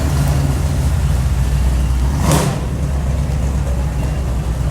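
Car engine idling with a steady low rumble. A brief hissing burst comes a little over two seconds in.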